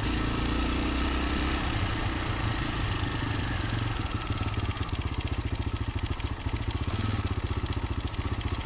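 Freshly rebuilt Honda NX250 single-cylinder four-stroke engine running steadily at a low, even speed, its firing pulses coming through more distinctly in the second half.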